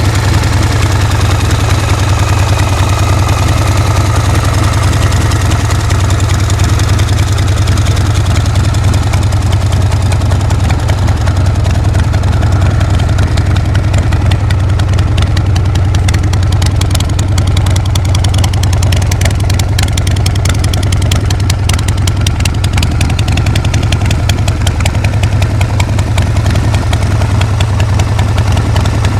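Harley-Davidson Shovelhead V-twin motorcycle engine running steadily at idle, its firing pulses close and regular.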